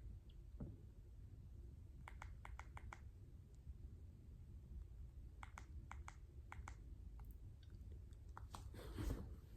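Faint, sharp clicks and light taps of small plastic model-train parts being handled while a boxcar's couplers are taken off, coming in short runs of several clicks.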